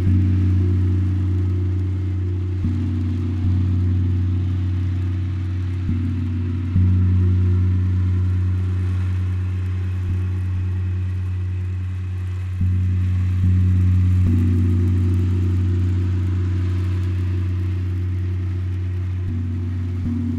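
Deep, low-pitched gong tones struck about eight times at irregular intervals. Each strike rings on and slowly fades as the next one sounds.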